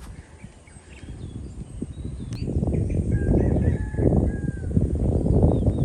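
Birds chirping in short calls, over a loud low rumbling noise that builds about two seconds in.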